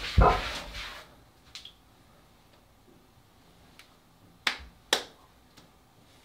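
Two sharp slaps about half a second apart, some four and a half seconds in: hands patting the cheeks. Before them, a louder sound dies away within the first second, followed by near quiet with a few faint ticks.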